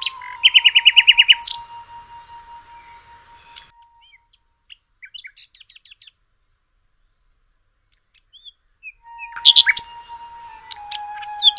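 Common nightingale song: a burst of fast, evenly repeated notes, then scattered short whistles, a silent pause of about two seconds, and another burst of song near the end.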